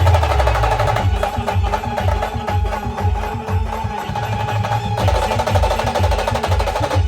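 Band music for dancing: fast, busy drumming with heavy bass drum beats under a sustained melody line.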